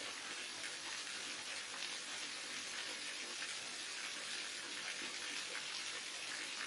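A waterfall: water falling and splashing in a steady, unbroken hiss that does not change.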